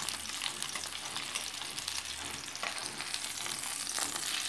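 Steamed cabbage wedges sizzling as they shallow-fry in hot oil, with a steady crackle throughout. A few sharp clicks come in the second half as the pieces are turned over with a spatula.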